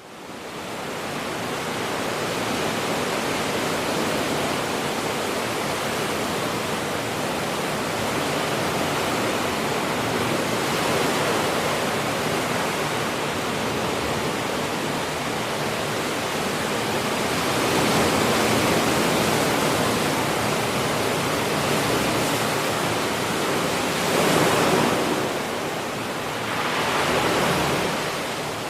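Ocean surf washing continuously, fading in at the start, with waves breaking louder about two-thirds of the way in and twice more near the end.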